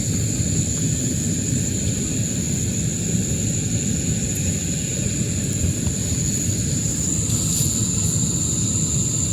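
Steady low rumbling noise of wind on the microphone, with a constant high-pitched whine above it.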